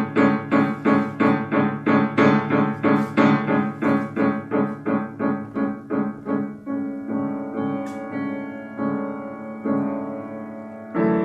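Piano playing a quick run of repeated chords, about three a second, that slows after about six seconds into a few held chords, with a fresh, louder chord struck near the end.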